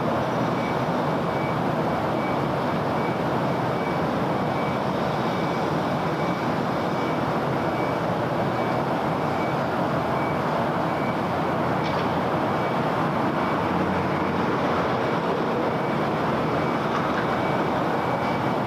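Steady city road traffic: a continuous wash of car engines and tyre noise on the street, with no single vehicle standing out. A faint high beep repeats evenly throughout, and there is a brief click near the middle.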